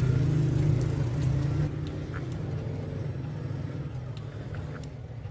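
A machine or motor running with a steady low hum, which drops in level about a second and a half in, with a few light clicks.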